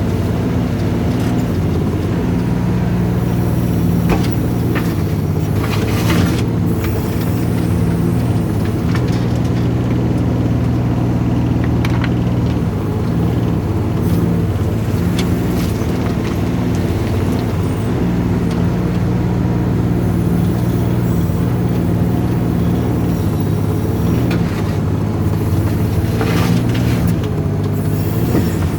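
Volvo mini excavator's diesel engine running steadily as it digs, its pitch shifting slightly with the load, with a few short knocks and clanks from the digging scattered through.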